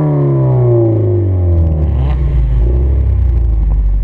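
Toyota GT86's flat-four boxer engine through a 5Zigen aftermarket exhaust, revs falling steadily, then settling into a low, steady rumble about two seconds in.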